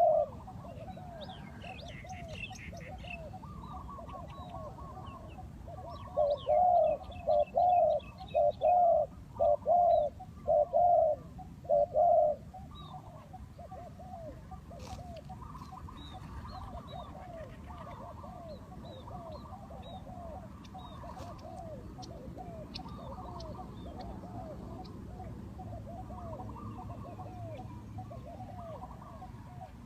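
Spotted doves cooing. One close bird gives a loud run of coos from about six to twelve seconds in, over fainter repeated cooing from other doves throughout. A few thin, high chirps from small birds are heard at times.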